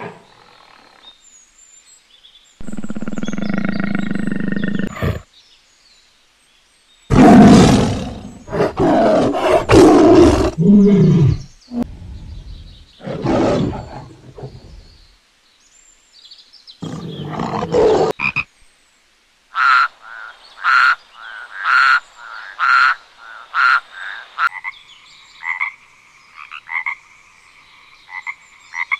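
A tiger growling and roaring in several loud, irregular bursts. About two-thirds of the way in, a frog takes over, croaking in a regular series of short calls that comes faster near the end.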